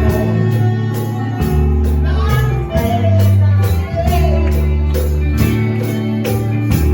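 Live gospel church music: a bass guitar holding low notes, a tambourine shaken on a steady beat, and a voice singing over the band.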